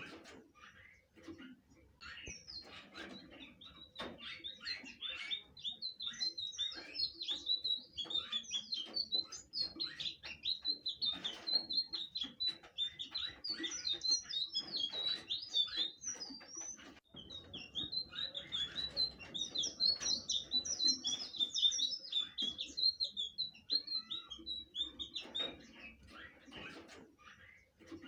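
Sikatan biru (blue flycatcher) singing continuously in fast runs of chirping, whistled notes, many pitched high at about the same note, with a short break a little past the middle.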